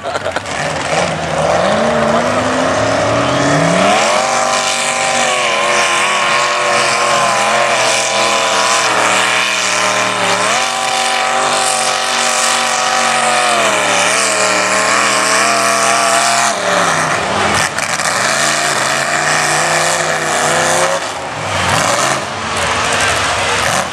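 Mud bog truck's engine revving hard at high rpm through the mud pit. The pitch climbs over the first few seconds, holds high with small dips and rises, and drops off about seventeen seconds in, with one more short rev near the end.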